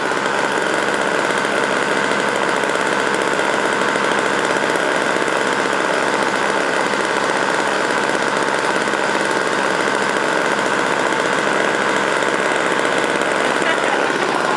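Snowblower's small gasoline engine running at a steady speed.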